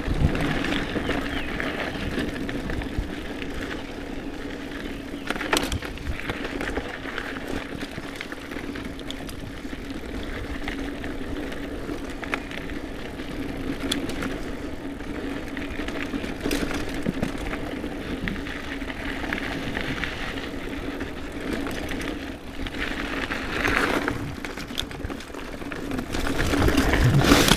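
Polygon Siskiu T8 mountain bike ridden over dirt singletrack: a steady rumble of tyres rolling and the bike rattling over the ground, with a few sharp knocks from bumps.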